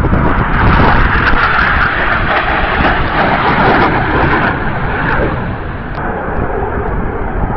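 Jet noise of a Red Arrows BAE Hawk's turbofan engine as it passes the crowd. A loud, steady rush that eases off after about five seconds as the jet draws away.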